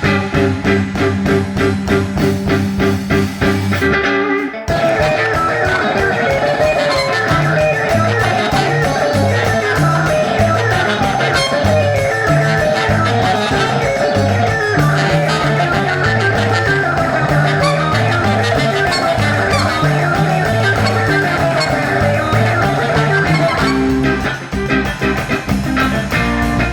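Instrumental band music: electric guitar over a moving bass guitar line and a drum kit, in a blues and psychedelic-rock vein. The band drops out briefly about four and a half seconds in, then comes back in full.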